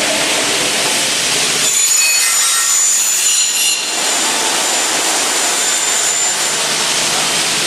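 Saw blades of a CNC double-head cutting saw for window and door profiles running with a loud, steady rush. From about two seconds in to about four seconds in, a blade cuts through a profile, and high ringing tones rise over the noise.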